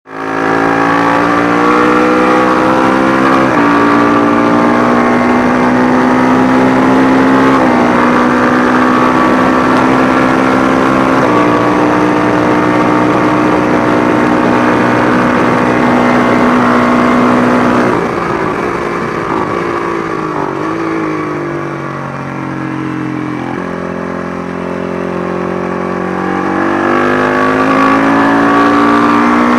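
Matchless G50 500 cc single-cylinder racing engine at race pace, pulling hard with its pitch climbing and dropping at three upshifts. About two-thirds of the way through the revs fall and it goes quieter through downshifts, then it picks up and climbs again near the end.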